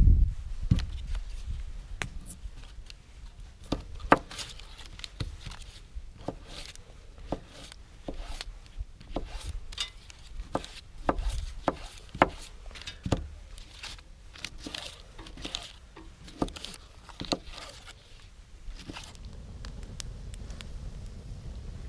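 A knife chopping food on a wooden board, with irregular sharp knocks and some scraping strokes.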